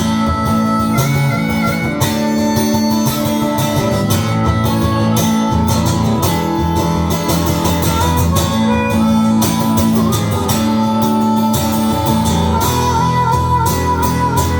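Live band playing an instrumental break in a country-style song, led by guitar.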